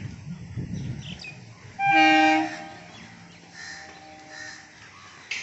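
Local electric train's horn sounding one short blast, under a second long, over the low rumble of the train running through the station without stopping.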